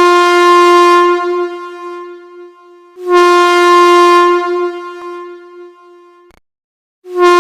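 Train air horn sounding one steady note in long blasts, three in a row: each starts abruptly, is loudest for about a second, then tapers off, with short gaps between them.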